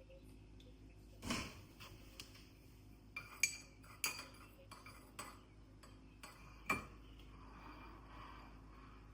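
Dishes and cutlery clinking and knocking together in a kitchen: about half a dozen sharp, separate clinks with a short ring, spread unevenly over several seconds.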